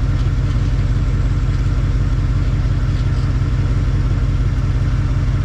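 Car engine idling steadily, with a low, even exhaust pulse.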